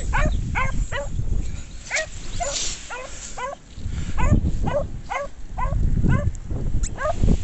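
A dog yelping in quick repeated calls, about two to three a second, with wind rumbling on the microphone.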